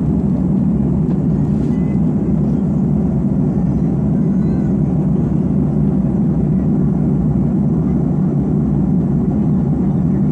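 Steady low rumble of an Airbus A330 cabin in cruise flight: engine and airflow noise, unchanging throughout.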